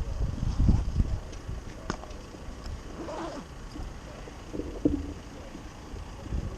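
Wind buffeting the microphone of a moving bicycle ride, strongest in the first second and easing after, over faint street sounds with a few brief higher sounds around the middle.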